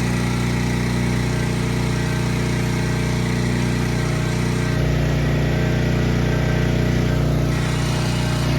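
Small engine running steadily at a constant speed, a machine standing in for the shop's missing mains power.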